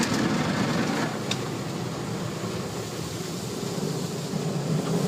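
Automatic car wash running, heard from inside the car: a steady rushing noise that eases slightly after the first second, with one faint click.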